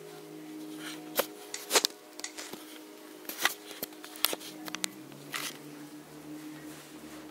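Scattered clicks and taps of small plastic connectors and wires being handled inside a PC case, over a steady low hum.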